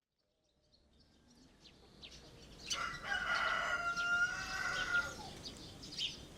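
A rooster crowing once, a long call starting a little under three seconds in, with small birds chirping around it.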